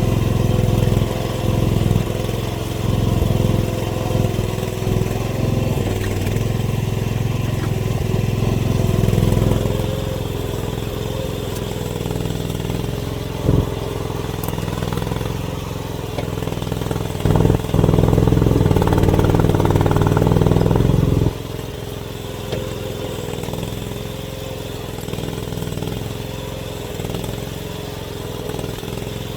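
Mini excavator's engine running under changing load as the machine works, louder for the first ten seconds and again for a few seconds past halfway before dropping suddenly back to a steady run. A single sharp knock comes in between.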